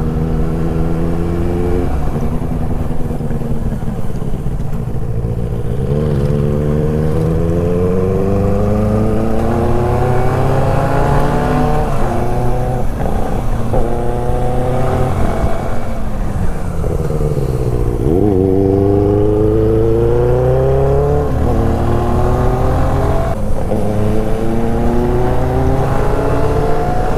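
Benelli 600i inline-four motorcycle engine pulling along the road, its exhaust note climbing in pitch and falling back several times as the rider rolls on and off the throttle and shifts, with a deep dip and climb about 18 s in.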